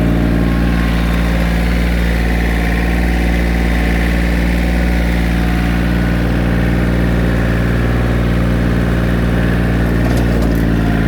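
1994 John Deere 770 compact tractor's three-cylinder diesel engine running steadily as the tractor drives slowly in first gear.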